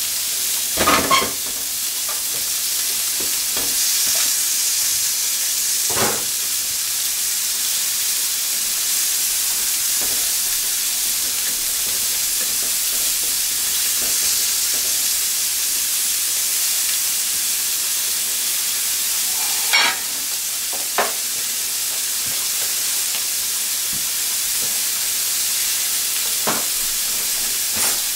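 Steady sizzling of ribeye steaks searing in a hot frying pan, with potato wedges frying in a pot of oil alongside. A few sharp clicks and knocks of a utensil against the cookware cut in, the loudest about a second in and about twenty seconds in.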